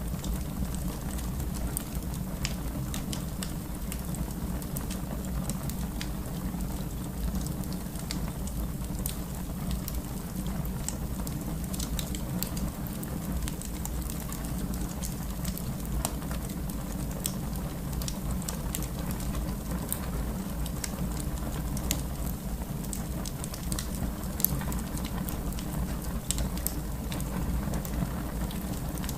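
Fire burning in a fireplace: a steady low rush of flame with scattered sharp crackles and pops, one louder pop about 24 seconds in.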